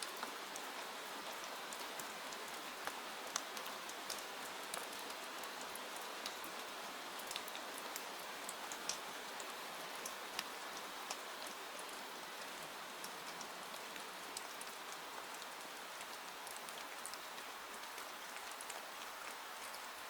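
Steady rain falling: an even hiss with many scattered light ticks of drops.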